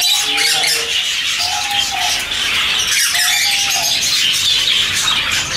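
Dense, continuous chatter and chirping of many caged small parrots, English budgerigars among them. Three times a longer, lower whistled call rises above the chatter.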